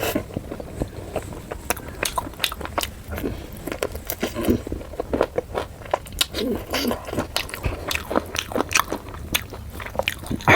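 Close-miked eating sounds: biting and chewing puri with chicken curry, a run of many small wet clicks and crackles.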